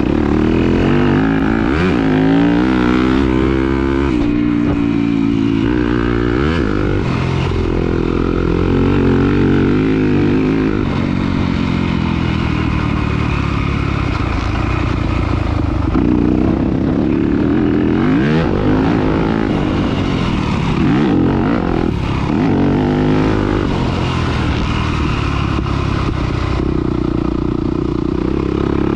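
Off-road racing engine under hard throttle, revving up and easing off again and again, its pitch rising and falling with throttle and gear changes.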